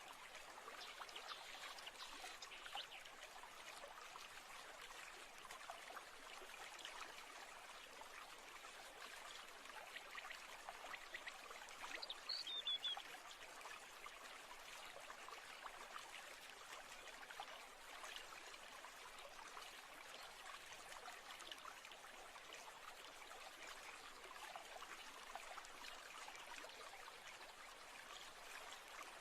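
Faint steady trickle and babble of a small stream. About twelve seconds in, a brief high falling chirp.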